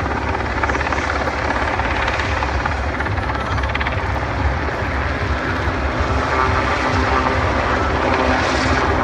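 Westland Sea King Mark 5 search-and-rescue helicopter running steadily, a low rotor beat under a continuous engine whine from its twin Rolls-Royce Gnome turboshafts.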